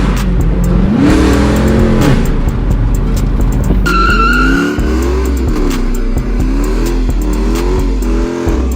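Straight-piped Chrysler 300S Hemi V8 being revved over and over, its pitch rising and falling about once a second, under background music.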